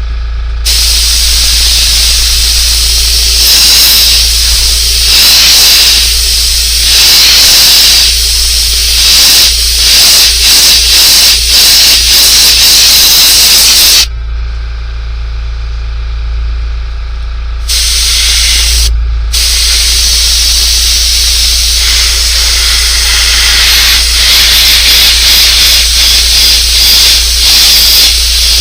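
Paint being sprayed with a steady hiss. It stops about halfway through, gives one short burst a few seconds later, then runs again to the end. A steady low hum sits underneath throughout.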